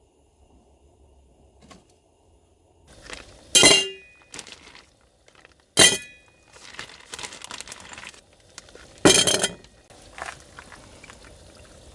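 Tableware and utensils being handled: three sharp clinks with a brief ring, about a third, halfway and three quarters of the way through, with lighter clattering and rustling between.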